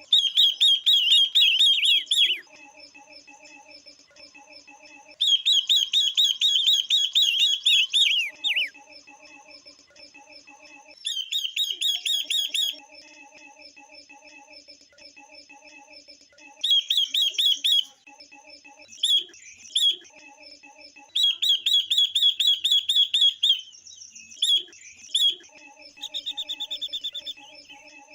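Female cage songbirds of the kinds called ngũ sắc and quế lâm calling, the calls used to stir males into song. They come in repeated bursts of fast, chattering high notes, each burst lasting one to two seconds. Between the bursts a quieter, lower sound pulses evenly.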